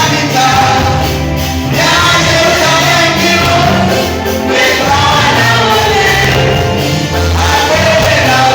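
Gospel music: singing voices over an instrumental backing with a bass line, loud and continuous.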